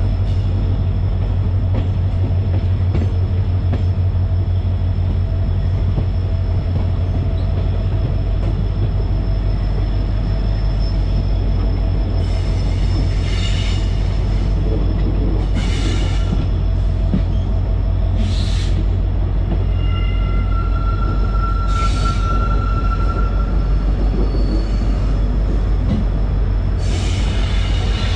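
Passenger train running, heard from on board: a steady, heavy low rumble from the carriage and track, with brief high-pitched wheel squeals about five times in the second half.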